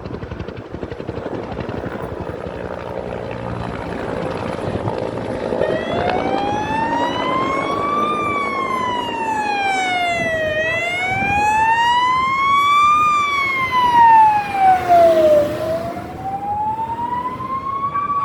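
Firefighting helicopter's rotor beating steadily. From about five seconds in, an emergency vehicle's siren wails over it, sliding slowly up and down, about two and a half seconds each way.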